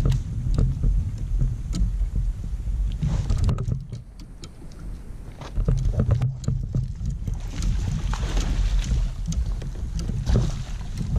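Wind rumbling on the microphone aboard a fishing kayak, with scattered small clicks and knocks and a few swells of swishing water-like noise.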